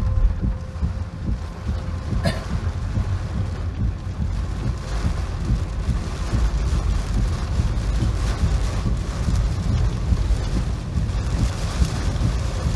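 Typhoon wind buffeting the microphone in gusts, over a steady rush of rain. There is a short sharp click about two seconds in.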